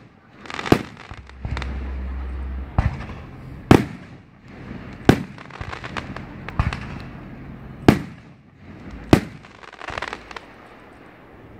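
Aerial firework shells bursting: about five loud, sharp bangs one to three seconds apart, with smaller pops and a hiss between them.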